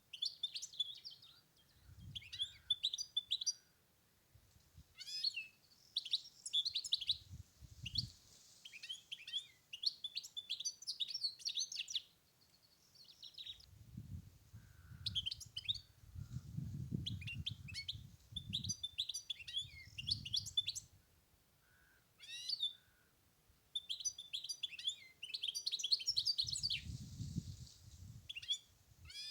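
European goldfinch singing: quick, tinkling twittering phrases repeated with short pauses. A low rumble comes and goes beneath the song, loudest in the middle stretch and near the end.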